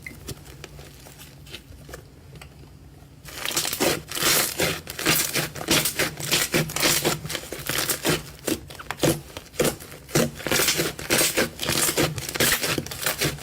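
Slime being squished and poked by hand, making dense crackling and popping clicks. It is faint at first and turns loud about three seconds in.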